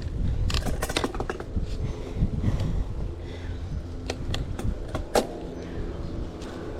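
Wind rumbling on the microphone of a camera carried on a moving bicycle, with a few sharp clicks and rattles in two clusters, the loudest about five seconds in.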